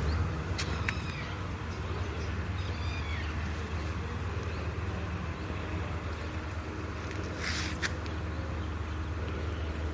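Birds chirping intermittently, a few short rising and falling chirps in the first few seconds and a harsher call about three-quarters of the way through, over a steady low rumble.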